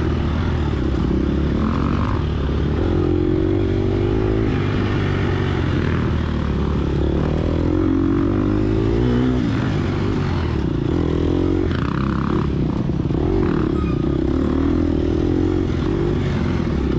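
Gas Gas EX250F dirt bike's 250cc four-stroke single-cylinder engine running hard, its pitch rising and falling again and again as the throttle opens and closes.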